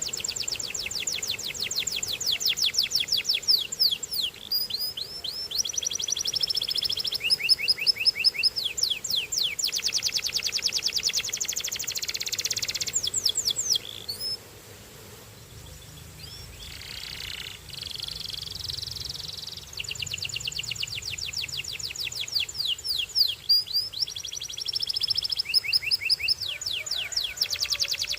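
Canary singing long, high trills of rapidly repeated notes, with phrases that change pitch and note type. The song pauses for several seconds about halfway through, then resumes.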